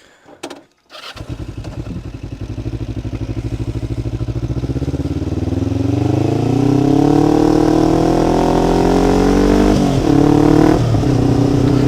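Kawasaki Ninja 500 parallel-twin motorcycle engine starting about a second in after a couple of clicks, then running at idle. Its speed rises gradually over a few seconds and then holds steady, with a brief dip near the end.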